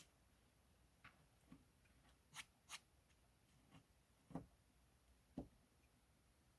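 Near silence with about seven faint, scattered clicks and knocks, two sharp clicks in quick succession near the middle.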